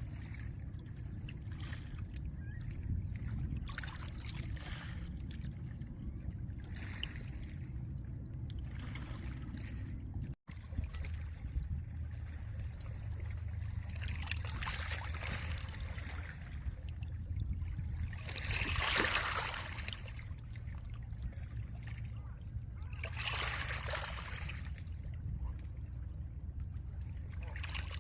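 Small lake waves washing over a pebble shore: every few seconds a swell of hissing wash rises and falls, the strongest about two-thirds of the way in, over a steady low rumble of wind and water. The sound cuts out for an instant about ten seconds in.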